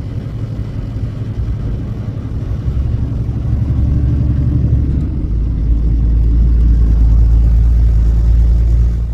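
Truck's diesel engine and road noise droning inside the cab, the low rumble growing louder over the second half.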